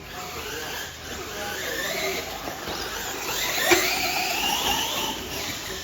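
Electric motors of radio-controlled monster trucks whining, the pitch rising and falling with the throttle, with one sharp knock a little past the middle.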